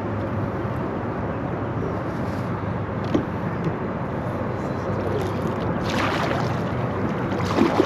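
Steady rushing noise of water and air around a kayak on a creek, with a low hum beneath it, a light knock about three seconds in and a brief louder rush about six seconds in.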